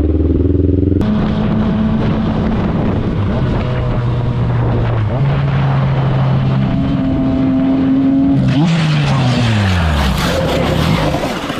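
Motorcycle engine pulling through the gears, its pitch stepping up with each shift. About eight and a half seconds in the revs fall away under a loud scraping hiss as the bike slides out on oil on the road.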